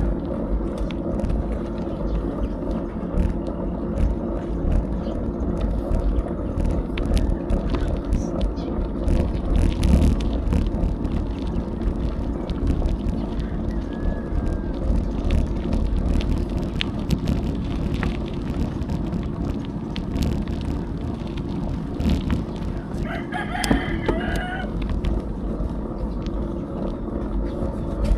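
Steady wind rumble on the camera microphone and road noise from a bicycle ride, with scattered small rattles and clicks. A rooster crows once, about twenty-three seconds in.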